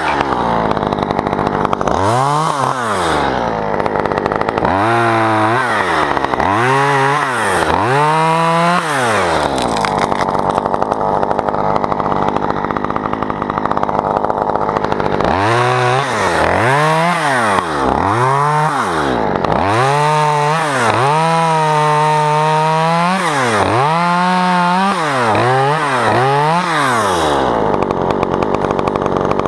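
Two-stroke chainsaw revving up and down over and over, held at high speed for about three seconds roughly two-thirds of the way through.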